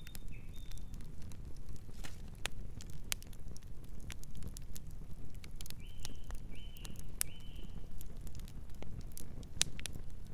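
Wood fire crackling, scattered sharp pops over a low steady rumble. A bird gives three short chirps about six seconds in, and a brief high note near the start.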